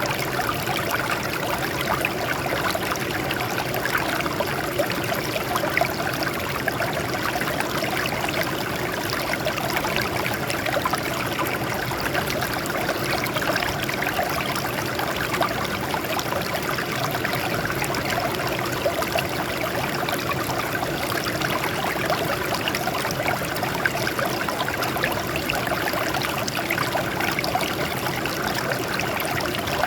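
Water flowing and trickling over rocks, a steady splashing and babbling.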